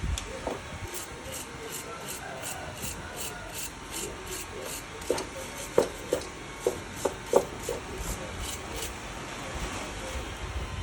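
Rapid, regular rubbing strokes by hand, about four a second, with a few sharp knocks around the middle.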